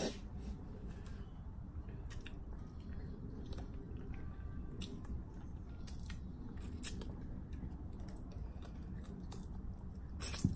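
Someone chewing and eating a bowl of noodle soup, with scattered small clicks and a louder click at the very start and near the end, over a steady low background rumble.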